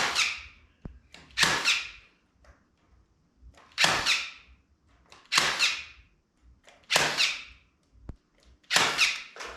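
Electric staple gun firing staples through hardware cloth into a wooden frame: six sharp shots, about one and a half seconds apart.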